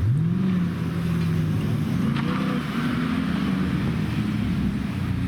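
A car engine revving. Its pitch climbs quickly at the start, holds, then rises again about two seconds in.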